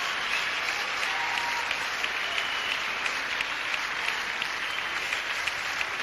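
A studio audience applauding steadily after a song, with a few whistles.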